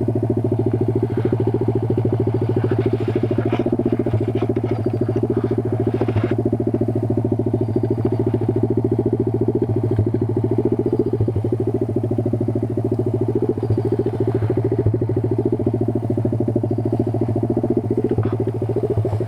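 Kayo 140 pit bike's single-cylinder four-stroke engine running at a steady speed, with a few light clicks and knocks between about three and six seconds in.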